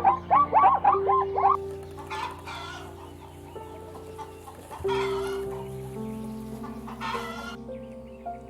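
A quick run of short, rapidly repeated animal calls, then two harsh, noisy calls several seconds apart, over soft background music with sustained notes.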